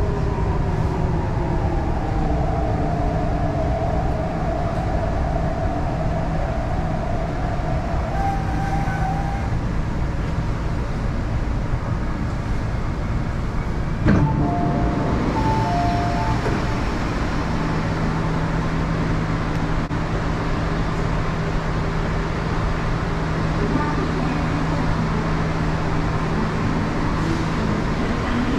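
MTR East Rail Line R-Train electric multiple unit heard from inside the car: a steady rumble of wheels on rail, with the traction motor whine falling in pitch over the first several seconds as the train slows. A knock about fourteen seconds in, a few short beeps just after it, then a steady low hum.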